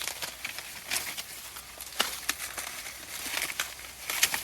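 Dry corn plants rustling and crackling, with irregular sharp snaps and clicks.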